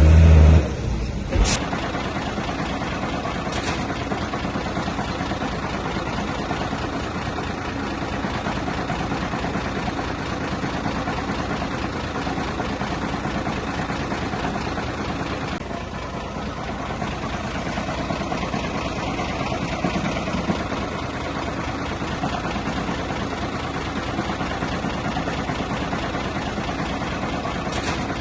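Heavy diesel earthmoving machine's engine running steadily at a low, even pace. A loud low thump comes in the first second and a half.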